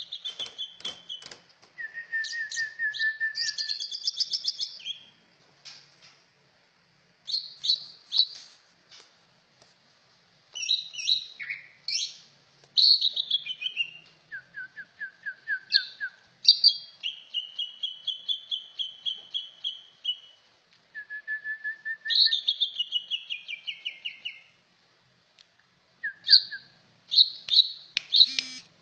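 Trucak ijo songbird singing: phrases of fast trills and repeated whistled notes, mostly high-pitched, some falling in pitch, broken by pauses of a second or so between phrases.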